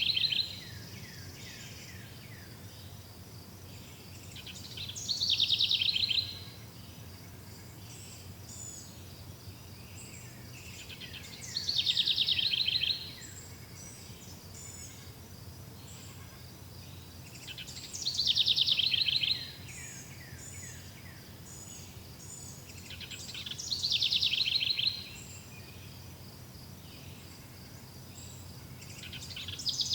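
A songbird repeating a short song about every six seconds, each phrase a quick trill of notes falling in pitch, lasting about a second. Faint high chirps and a soft steady background hiss fill the gaps.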